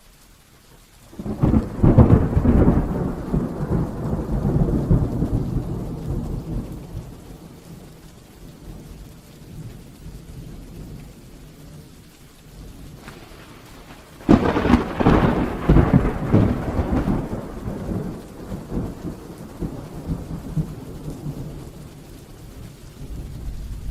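Heavy rain falling steadily, with two loud thunderclaps: one breaks about a second in and rumbles away over several seconds, a second cracks in about halfway through and rolls on, and a lighter rumble swells near the end.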